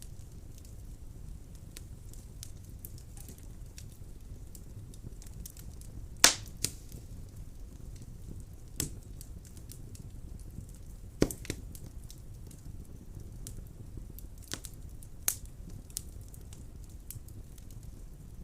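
Wood fire burning in a fireplace: a steady low rumble of flame with scattered small crackles and a few louder sharp pops, the loudest about six, eleven and fifteen seconds in.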